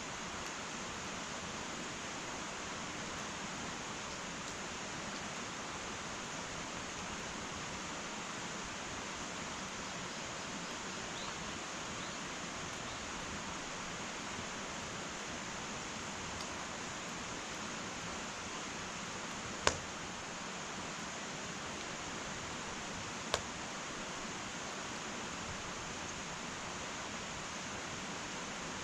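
Wood fire burning in an irori hearth: a steady soft hiss, with two sharp pops of burning wood, the louder one about two-thirds of the way through and a smaller one a few seconds later.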